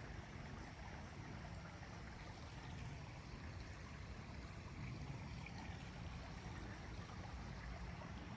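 Faint, steady flow of creek water.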